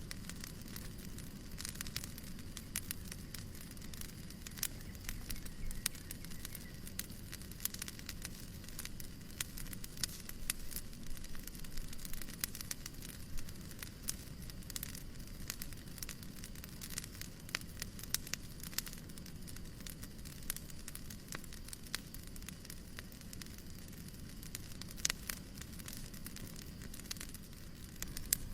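Wood fire crackling in a fireplace: irregular sharp pops and snaps, several a second, over a steady low rushing noise.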